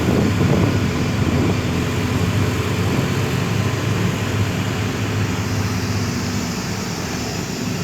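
Steady engine drone and road noise of a moving city bus, heard on board.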